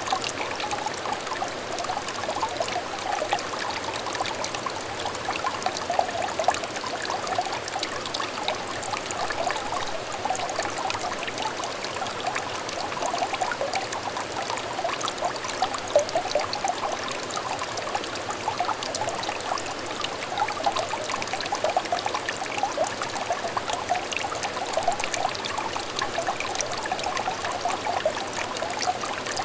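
A small shallow stream trickling and babbling over stones, a steady patter of many small splashes and bubbles with no breaks.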